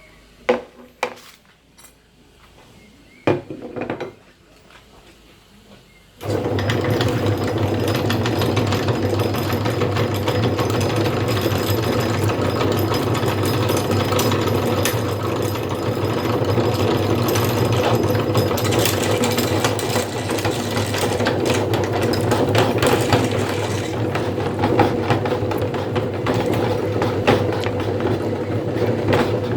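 A few short knocks, then about six seconds in an electric meat grinder switches on and runs steadily with a low hum, crackling as it grinds hard grape candy.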